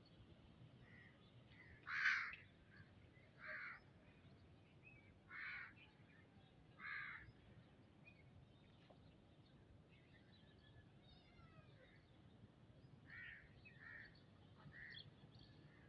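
A bird calling: four loud calls spaced about a second and a half apart, then fainter calls and light chirping later on.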